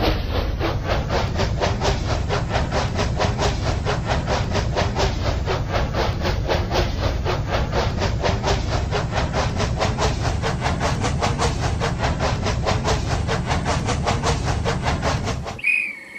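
Toy steam train's chuffing sound effect, an even hissing chug about five times a second. It stops near the end, and a short whistle sounds.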